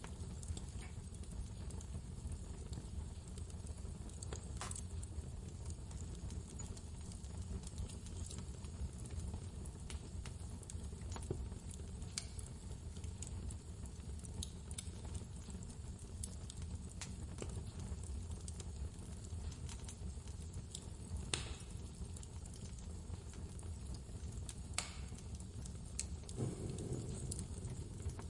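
Wood fire crackling with scattered sharp pops, over a steady low rumble of blizzard wind.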